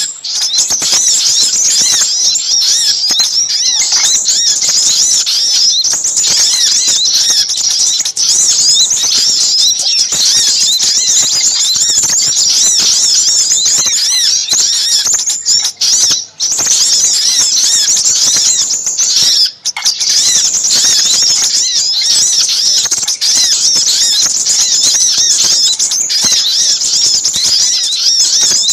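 A dense, busy chorus of high-pitched small-bird chirps and twitters, many calls overlapping without pause: a lure recording mixing little spiderhunter (sogok ontong) and crimson sunbird (sepah raja) calls, used to draw in small birds. It breaks off briefly twice past the middle.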